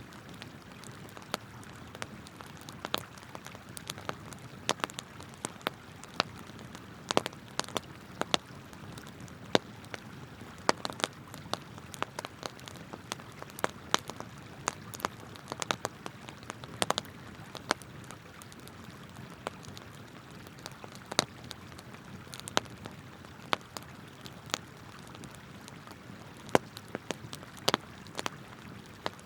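Wood campfire crackling, with frequent irregular sharp pops and snaps, over the steady rush of flowing river water.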